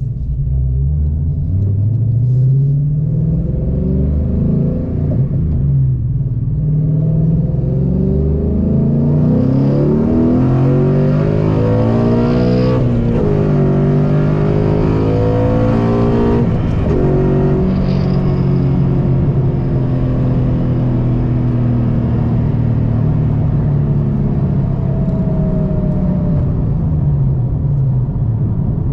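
2013 Mustang GT's 5.0 Coyote V8 running through an aftermarket exhaust: shorty headers, a 3-inch X-pipe, a cat delete and SVE mufflers. The revs climb to a peak about twelve seconds in, drop back, rise again around eighteen seconds and hold a steadier note, then ease off near the end.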